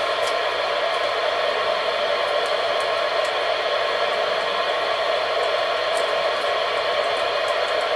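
Steady radio hiss from an AOR AR-2002 scanner receiver's speaker, tuned off a station, with faint ticks now and then.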